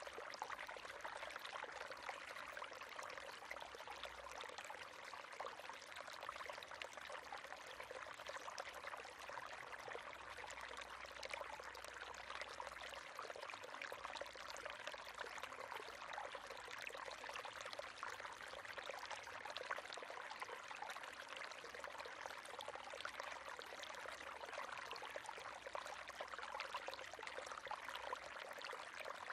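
River water flowing and babbling steadily, a continuous splashing rush with fine trickling detail.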